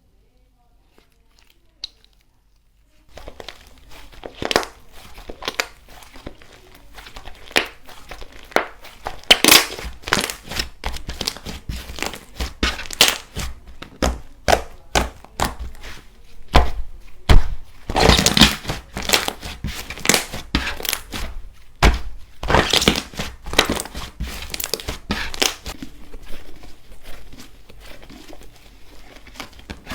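Crunchy slime being pressed and squeezed by hand, giving dense, irregular crackling and crunching that starts about three seconds in, with louder crunches coming in clusters.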